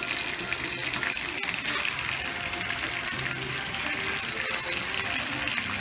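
Chicken in sauce sizzling steadily in a pan on a gas stove, a dense, even crackling hiss.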